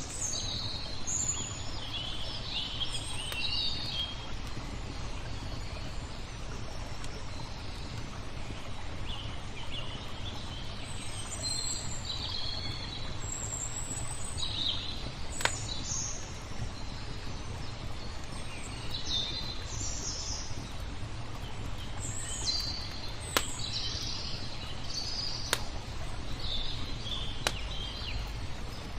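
Songbirds chirping and twittering in short scattered phrases over a steady low background noise, with a few sharp single pops from a crackling wood fire about halfway through and toward the end.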